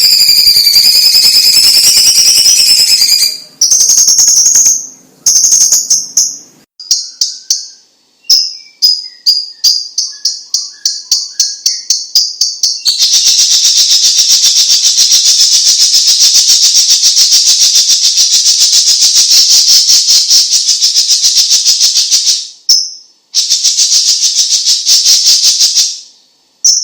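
Cucak cungkok (Chinese green leafbird) singing loudly. A high wavering whistle comes first. It is followed by a run of quick, sharp repeated notes that speed up, then long, fast, rattling trills broken by a couple of short pauses.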